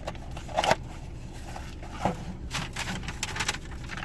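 Soft irregular clicks and ticks, a couple of single ones about a second apart, then a quick cluster near the end, over a steady low hum.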